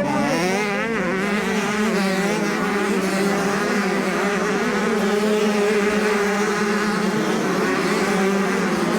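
Motocross bike engines running at high revs: a steady, loud drone with wavering higher tones above it.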